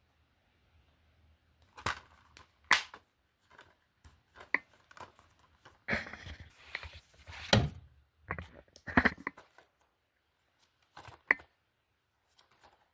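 Plastic DVD cases being handled: sharp clacks and knocks with rustling between, the loudest about two, seven and a half and nine seconds in.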